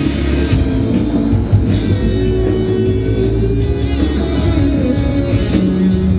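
Rock band playing a loud, continuous guitar-led rock piece.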